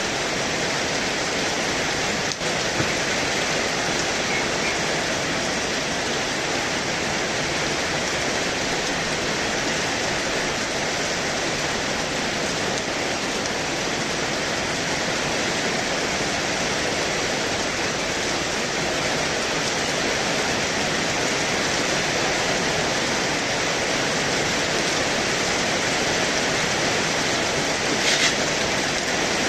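Heavy rain falling steadily in an even, unbroken downpour, with a few sharper taps near the end.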